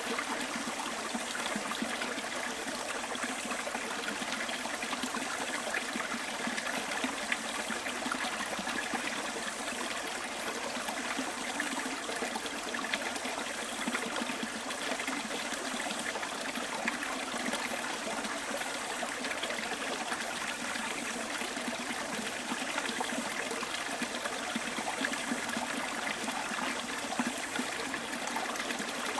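Bush stream flowing, a steady trickling babble of running water with no breaks or surges.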